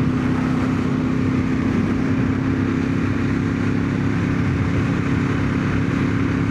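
1997 Ducati 916's V-twin engine running at a steady speed on the move, its pitch held level, with wind rushing over a microphone inside the rider's helmet.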